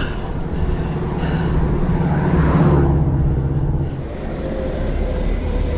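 A motor vehicle passes close by, its engine hum and road noise swelling to a peak about two and a half seconds in and fading by about four seconds, over steady traffic and road noise.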